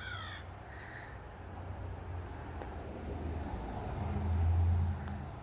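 Outdoor garden ambience: faint high insect chirping over a low hum that swells to its loudest about four seconds in, then drops away.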